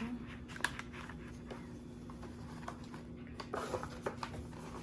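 Light handling sounds: a few soft taps and clicks, the sharpest about half a second in, and a brief rustle a little after three seconds, over a steady low hum.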